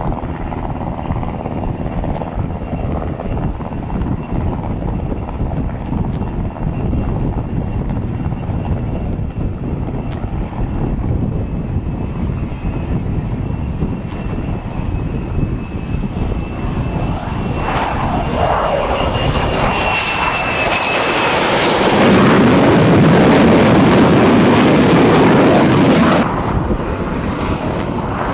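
Steady low rumble with the faint whine of an approaching F-35C's Pratt & Whitney F135 jet engine, its pitch creeping up, swelling into loud jet noise about 18 seconds in as the fighter comes aboard the carrier for an arrested landing; the loud noise cuts off suddenly about 26 seconds in.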